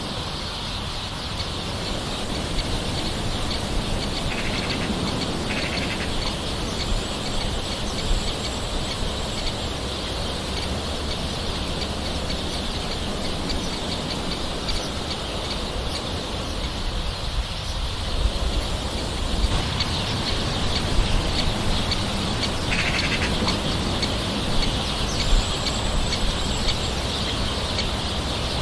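Steady light rain pattering, with birds calling in the background: a few short, high calls stand out over the rain.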